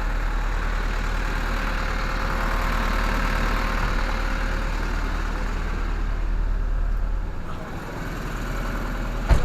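Truck refrigeration unit running steadily with a constant low drone and a hiss of machinery and airflow. The low drone weakens a little past seven seconds, and a single sharp knock comes near the end.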